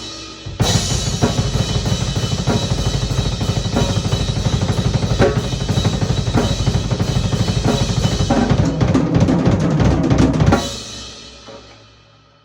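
Canopus Mahogany drum kit played hard: after a brief gap, a fast, busy passage of kick, snare and cymbals runs for about ten seconds, then stops and the cymbals ring out and fade away near the end.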